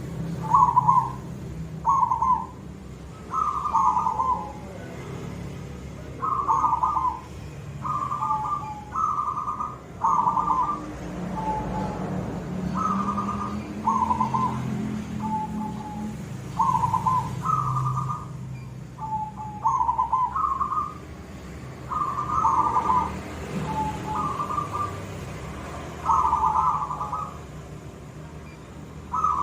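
Silver zebra dove (perkutut) cooing over and over, short mellow 'koong' notes about one a second, over a low background hum.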